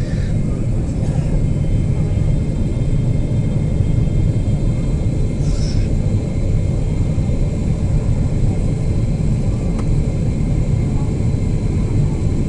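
Steady low rumble of a Boeing 777-300ER in flight, its GE90 engines and the airflow heard from inside the passenger cabin.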